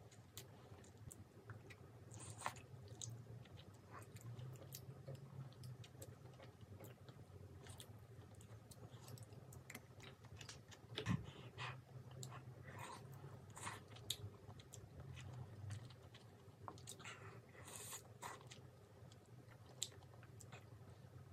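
Close-miked chewing and biting of spicy soupy chicken feet, soft wet mouth sounds with many small sharp clicks and one louder knock about halfway through, over a faint steady low hum.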